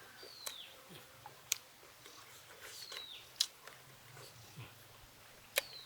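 A small bird calling: three short whistled chirps that fall in pitch, spaced a little over two seconds apart, with a few sharp faint clicks between them.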